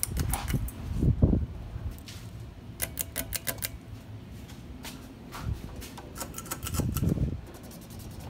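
Running ceiling fans with runs of rapid light clicking, about five clicks a second, and a few low whooshing swells of air or handling noise.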